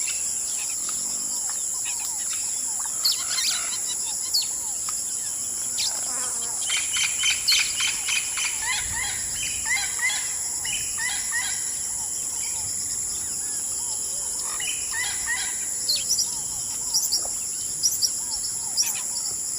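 Bird chicks chirping: many short, quick calls, densest in the middle and again near the end, over a steady high-pitched insect drone.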